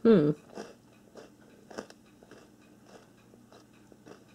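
Close-up crunching and chewing of a chocolate-covered puffed-corn snack, sharp bites about every half-second that grow fainter, after a brief vocal sound at the very start.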